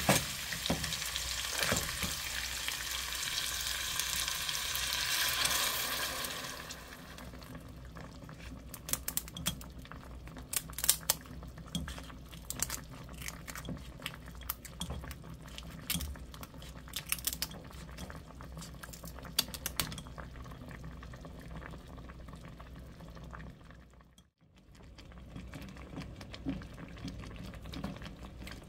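Seafood sizzling in hot oil in an earthenware pot, with a spoon stirring, for about the first six seconds. After that the sizzle drops to a quieter simmer, broken by scattered sharp clicks and taps.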